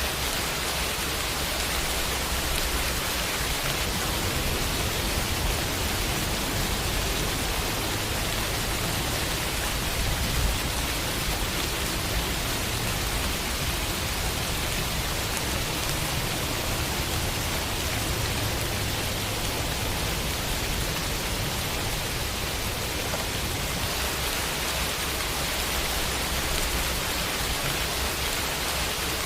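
Steady summer rain falling against a window pane, an even hiss of drops with no let-up.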